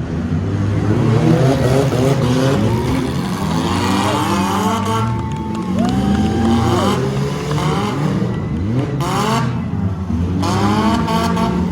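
Several demolition derby cars' engines revving together, their pitches rising and falling over one another.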